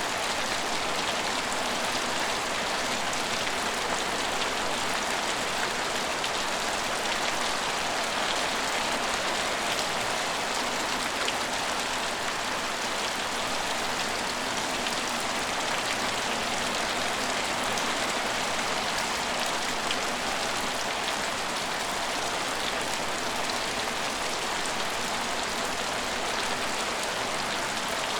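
Steady rain falling on a station, a dense even patter with many small drop ticks.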